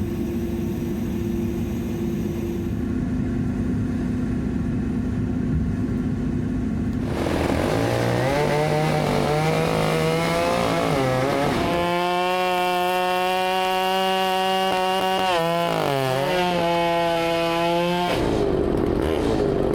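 A gas chainsaw revs and is then held at full throttle while cutting through a tree trunk. Its pitch sags briefly under load about two-thirds of the way through, and it stops near the end. Underneath, another engine runs steadily at idle.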